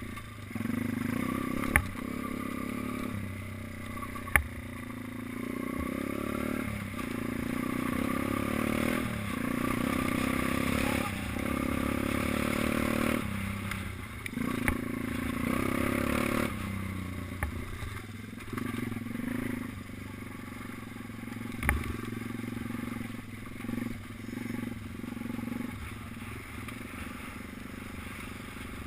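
Small minibike engine running and being revved up and down as it rides around a track, with the pitch rising and falling every few seconds. Three sharp knocks stand out, about two seconds in, about four seconds in, and near the 22-second mark.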